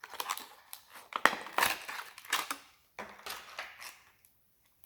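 Plastic lure packaging being handled and opened by hand: a run of irregular crackles, crinkles and small clicks.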